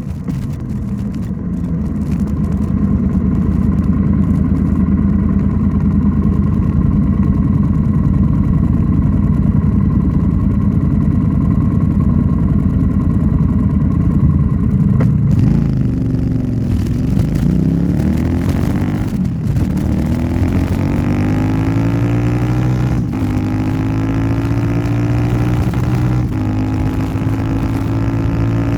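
Royal Enfield Interceptor 650's parallel-twin engine through an aftermarket Nuke exhaust, on the move. It holds a steady note for about fifteen seconds, then drops in pitch as the bike slows and climbs again as it accelerates, with a couple of gear changes near the end.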